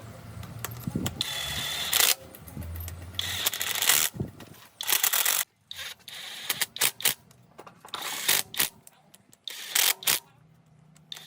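Workshop hand-tool sounds: a run of short mechanical clicks and clanks, like a ratchet and metal parts being handled, in separate snippets that start and stop abruptly.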